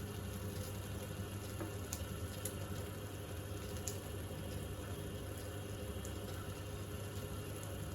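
Homemade belt grinder powered by a washing-machine motor, running steadily: an even hum under a hiss, with a few faint ticks.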